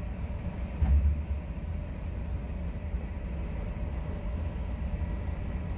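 Passenger train running, heard from inside the carriage: a steady low rumble of wheels on rails, with a brief louder thump about a second in.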